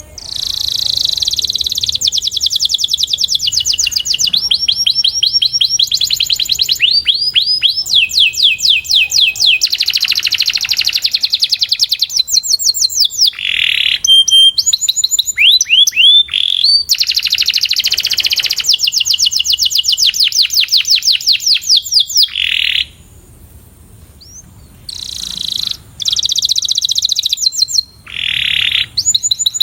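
Domestic canary singing a long song of rapid trills, each a fast run of repeated notes that changes to a new trill every second or two. There is a short break about two-thirds of the way through.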